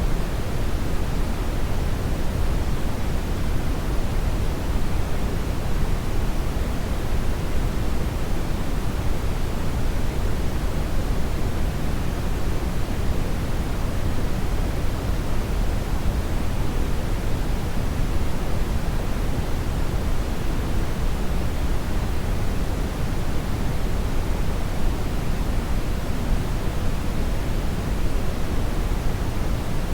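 Hair dryer blowing steadily, an even rushing noise weighted toward the low end that does not change.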